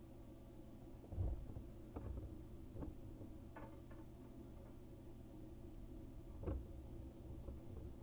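Work handling noises: a few scattered light knocks and clatters, the loudest about a second in and again past the middle, over a low steady hum.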